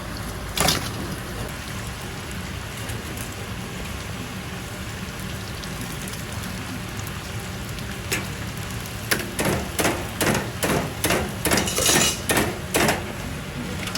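Steady, rain-like sizzle of chicken deep-frying in oil, with a run of knocks and clatter of utensils and pans in the second half.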